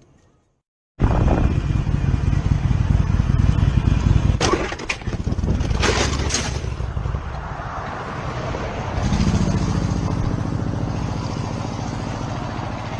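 Motor vehicle running with steady engine and road noise, with several sharp knocks or impacts about three and a half to five and a half seconds in.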